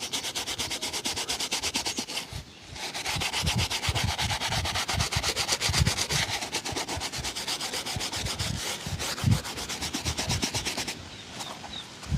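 A shoe being buffed briskly, fast rubbing strokes at about eight a second, with a short pause about two and a half seconds in and softer strokes near the end.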